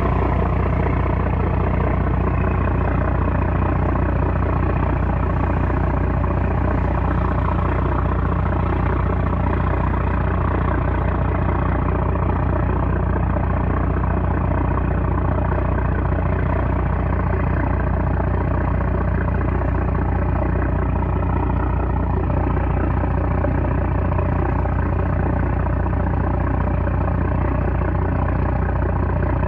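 A small trawler's 330-horsepower engine running steadily, a constant low drone.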